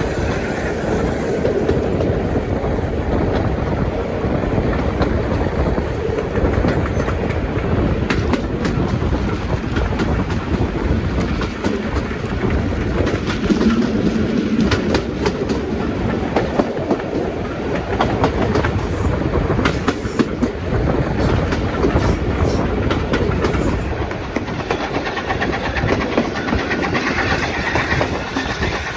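Steam-hauled heritage train running along the line, heard from the carriage window: a steady rumble and rush, with scattered sharp clicks of the wheels over the track.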